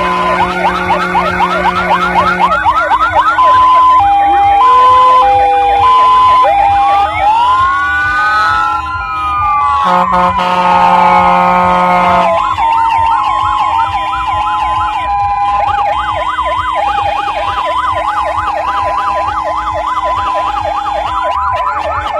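Several fire engines' sirens sounding together: a two-tone hi-lo alternation over fast yelping sweeps, with slow wails rising and falling about a third of the way in. A steady low horn tone sounds twice, at the start and again about halfway through.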